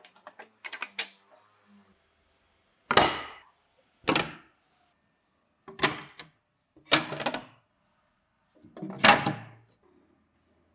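Five separate sharp knocks, spaced irregularly one to two seconds apart, with a few lighter clicks about a second in, from work on the tank build.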